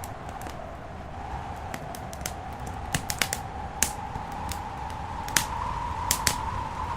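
Wood fire in a fireplace crackling, with irregular sharp pops that grow more frequent and louder in the second half, over a steady rushing background noise.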